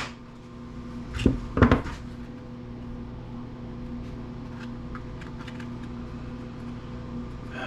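Hard metal and plastic parts of a disassembled electric planer knocking and clattering on a workbench, three sharp knocks close together about a second in, then a few light clicks over a steady low hum.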